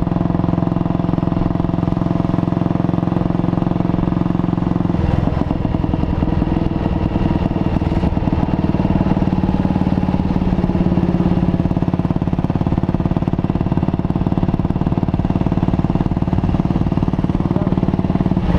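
Junak M10's 350 cc single-cylinder four-stroke engine running on the move, its steady note turning rougher and more pulsing about five seconds in.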